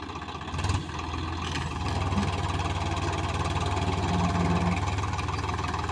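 Swaraj 735 tractor's three-cylinder diesel engine running. It gets louder about half a second in as the throttle opens, then holds a steady, throbbing note.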